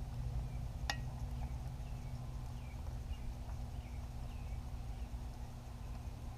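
Electric rotisserie motor on a charcoal kettle grill running with a steady low hum as it turns the spit, with one sharp click about a second in and a few faint chirps in the middle.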